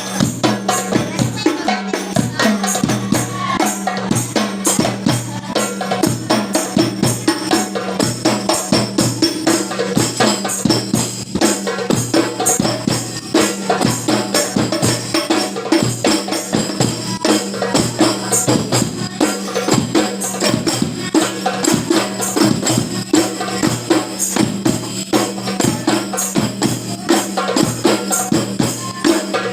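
Terbang frame drums beaten in a fast, steady rhythm of dense strikes that runs without pause.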